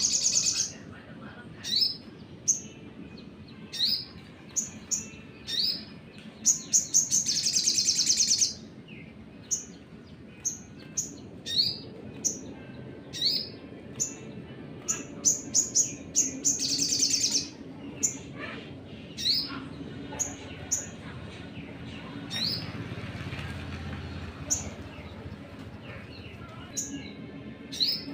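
Crimson sunbird (sogon) calling: short, sharp rising chirps about once a second, broken twice by a long, rapid trill.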